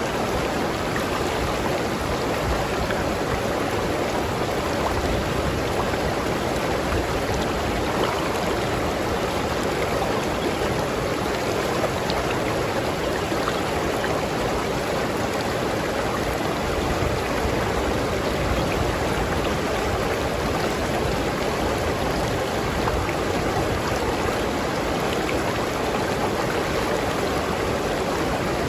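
River water flowing steadily over rocks, a continuous rushing babble with small splashes.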